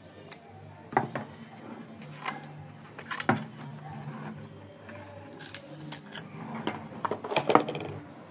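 Plastic detergent drawer of a washing machine being handled and worked on: scattered clicks, knocks and rubbing, with the loudest knocks about a second in, around three seconds and near the end.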